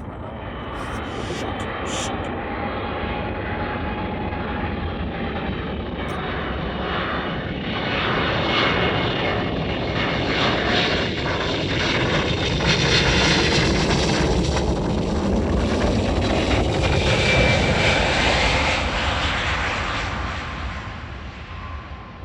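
Jet airliner passing by, its engine noise growing steadily louder, peaking with a whine a little past the middle, then fading toward the end.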